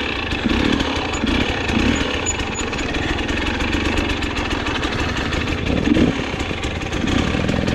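Dirt bike engine running under load while riding a trail, the revs surging and dropping a few times as the throttle is worked.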